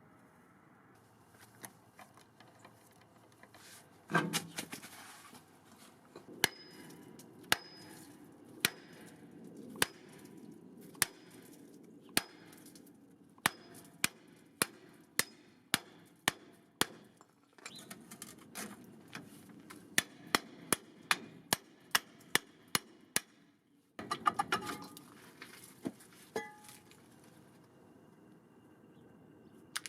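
Hammer blows on metal while freeing a seized truck wheel. The sharp strikes come about once a second, then in quicker runs of about two a second, each with a brief metallic ring.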